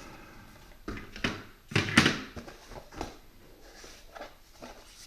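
Irregular knocks and clatters of pet-door kit parts being handled, about half a dozen, the loudest about two seconds in.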